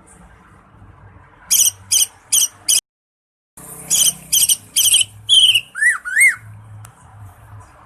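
Cucak ijo (green leafbird) singing loudly: a run of sharp, rapid chattering notes, a sudden dead gap of under a second where the audio cuts out, then more notes ending in two swooping whistled calls.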